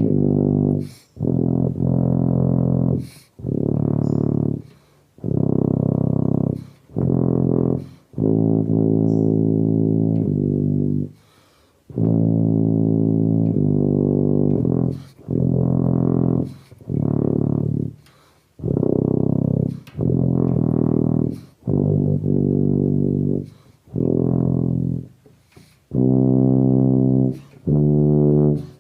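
Solo tuba playing a slow hymn melody in phrases of one to three seconds, with short breath pauses between them.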